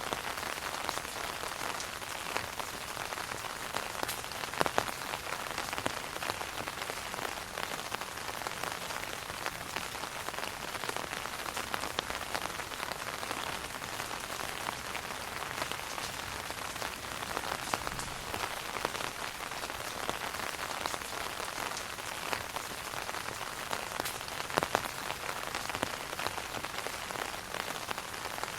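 Steady rain falling on an umbrella: a dense, even hiss of drops, with a few louder single drops striking now and then.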